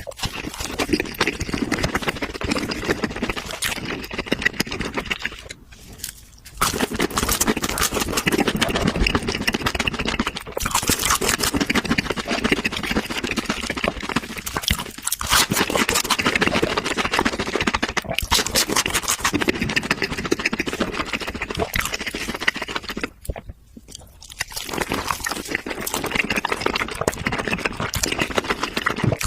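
Close-up eating sounds: crunching and chewing of food, with two brief pauses.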